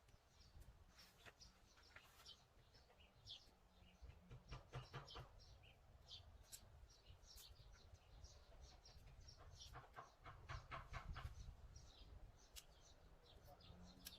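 Faint birdsong: many short high chirps scattered throughout, with two louder rapid rattling runs about four and ten seconds in, over a low background rumble.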